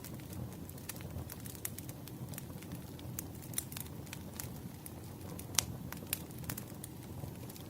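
Wood fire burning: irregular crackles and snapping pops over a soft, steady low rumble of the flames, with the sharpest pop about five and a half seconds in.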